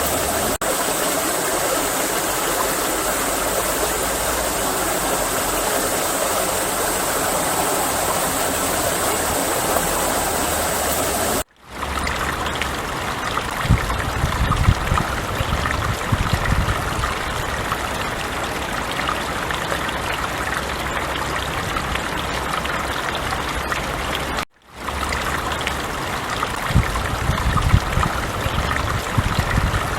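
A forest stream running, a steady rush of water noise, cut off briefly twice by sudden breaks between clips. Twice, about a third of the way in and again near the end, there are a few seconds of low rumbling bursts under the water noise.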